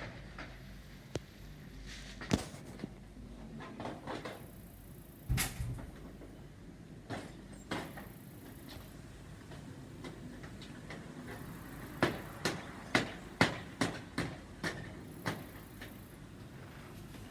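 Sharp knocks and taps, scattered at first, then a run of about eight evenly spaced knocks at roughly two a second near the end.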